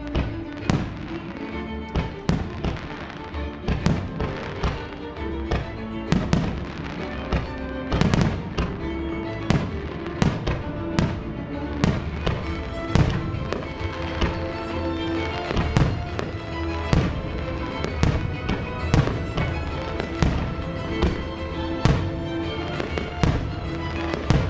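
Fireworks shells bursting in quick succession, sharp bangs roughly two a second, over music played through the show's loudspeakers.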